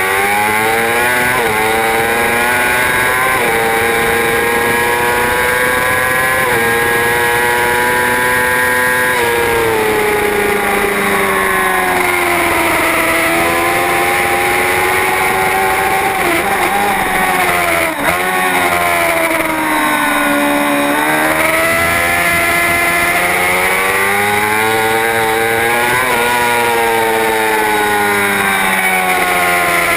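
Racing superbike engine at full race pace, its note climbing high under acceleration and falling back under braking, several times over. Its pitch drops sharply about halfway through and again near the end.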